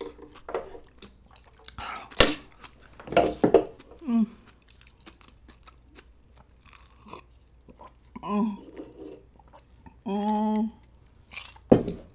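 Close-up eating sounds: chewing and crunching on kimchi, with sharp clicks of chopsticks and dishes scattered through. Near the end come a short bit of voice and a brief steady hum.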